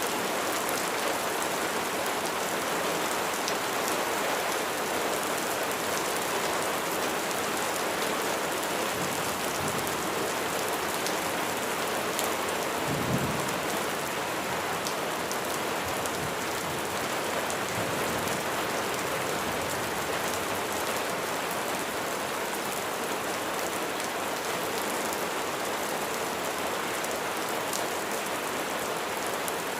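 Steady heavy rain, an even dense patter. Near the middle there is a brief low rumble.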